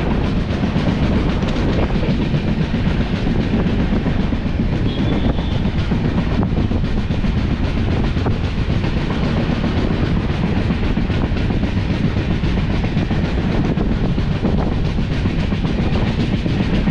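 Steady rumble and wheel-on-rail clatter of a moving passenger train's sleeper coach, heard close up from its open doorway.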